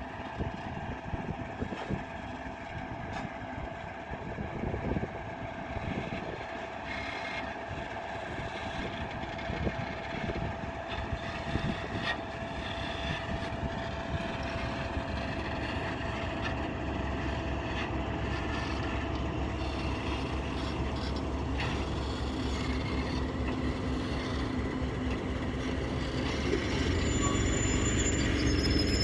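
Freight train approaching, its rumble growing steadily louder.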